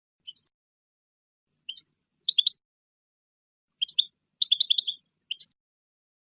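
European goldfinch calling: short, high chirping notes in small groups separated by brief pauses, with a quicker run of notes about four and a half seconds in.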